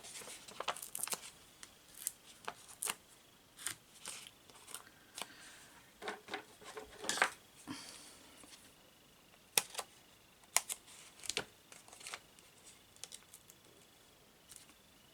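Irregular sharp clicks and brief paper rustles of hands working at paper crafts, here peeling foam adhesive pads from their sheet and pressing them onto card.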